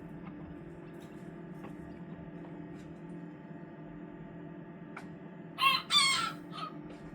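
A rooster crows once near the end, a short, high crow in three parts with the long middle part falling in pitch, over a steady low hum.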